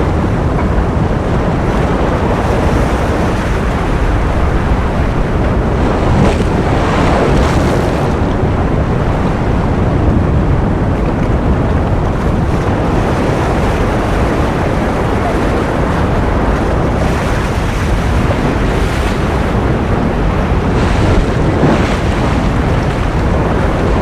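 Ocean surf: a steady, dense rush of waves, with a brighter hissing swell breaking through now and then.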